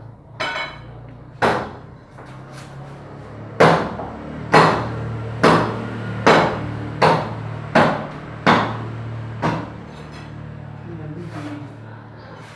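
Repeated sharp knocks, about ten in all: two early on, then a steady run of roughly one a second through the middle. A low steady hum runs underneath.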